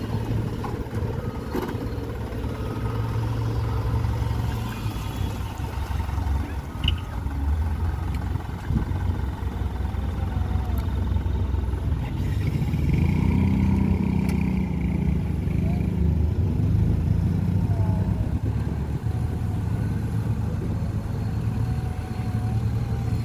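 Dump truck's diesel engine running steadily at low revs, revving up for a few seconds about halfway through before settling again.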